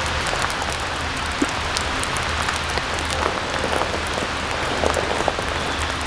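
Steady rain, with scattered heavier drops tapping sharply on a surface.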